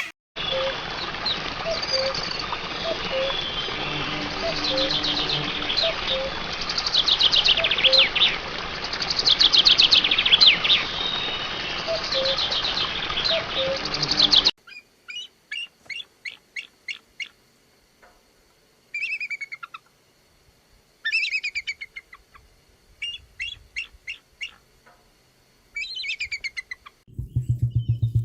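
Recorded birdsong: first a busy chorus of many birds chirping and trilling over a steady hiss, then, about halfway, a cut to a cleaner recording of separate chirps and quick trills with short gaps between them. Music with a deep bass comes in near the end.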